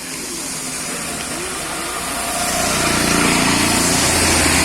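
A small motor vehicle's engine drawing near, growing louder over about three seconds and then running steadily, over the even hiss of rain.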